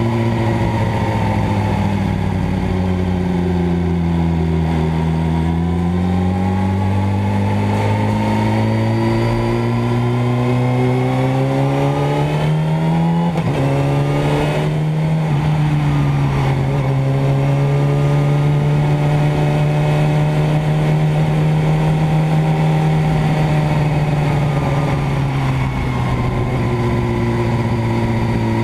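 Motorcycle engine running. Its pitch dips, then rises slowly, as with revving or a gentle acceleration. After a brief break about halfway through it holds a higher steady note, then drops back near the end.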